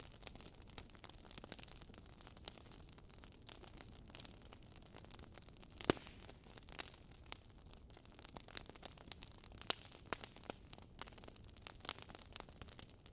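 Wood fire in a fireplace crackling softly, with irregular sharp pops and snaps over a faint low hiss; the loudest pop comes about six seconds in.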